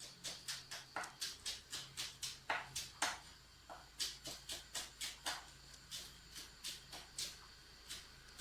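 Repeated short strokes of a cooking utensil, about three a second and evenly paced, thinning out near the end.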